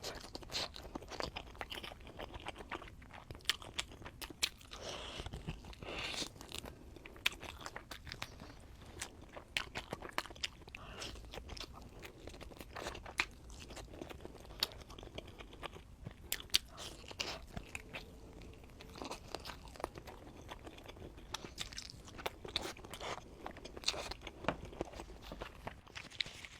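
Close-up eating sounds: a person chewing and biting, with many short irregular crunches and wet mouth clicks.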